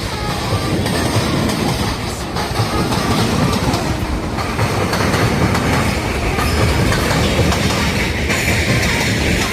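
Freight train hauled by a JR Freight EF210 electric locomotive rolling past, wheels clattering steadily over the rail joints, with a hissing rail noise growing in the second half.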